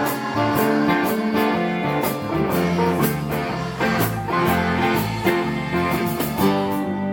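Instrumental band music: guitar playing over a bass line, with a steady tapping beat.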